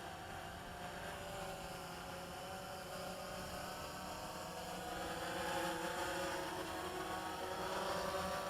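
DJI Phantom quadcopter's propellers whining as it comes in to land, several wavering tones growing louder as it nears.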